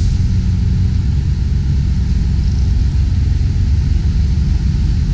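Semi-truck diesel engine running steadily, a low rumble heard from inside the cab.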